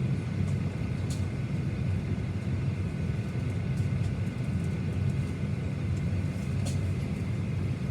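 Steady low rumble and hum inside the cabin of a Boeing 737-900ER waiting for departure, with a faint high tone over it and two small clicks, one about a second in and one near the end.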